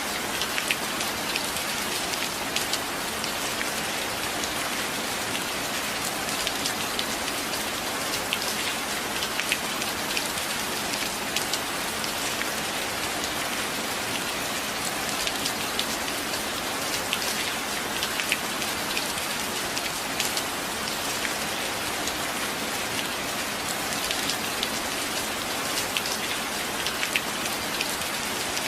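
Steady rain falling, an even hiss with scattered individual drops ticking sharply above it.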